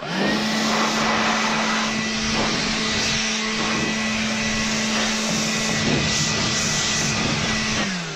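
Craftsman 24-volt cordless leaf blower running at a steady speed: a loud rush of air over a steady motor whine. It starts suddenly and winds down near the end, its pitch falling as the fan slows.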